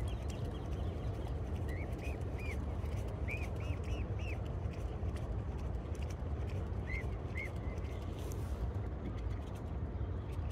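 Short, high bird chirps in quick runs: three about two seconds in, four more a second later, and two near seven seconds. Underneath runs a steady low rumble, with light ticking of rain.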